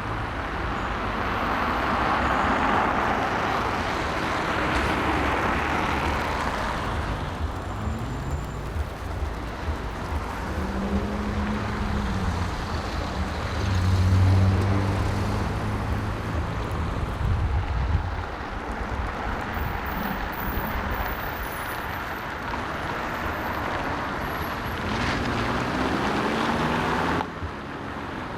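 Street traffic: cars and trucks driving past, their engines rising and falling in pitch over a steady road noise. The sound changes abruptly near the end.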